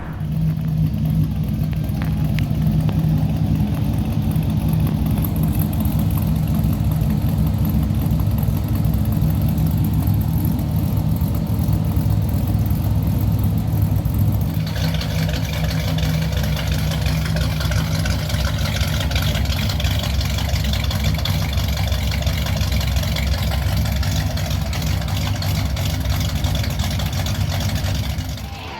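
Modified 350 small-block Chevy V8 in a 1962 Chevrolet Biscayne idling steadily through its dual exhaust, a low, even rumble. About halfway through the sound turns brighter, with more hiss in the top end.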